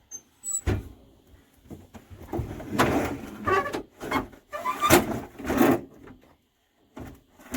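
A sharp knock just before a second in, then a run of irregular scraping and rattling handling noises, like parts being moved or worked by hand, with another burst near the end.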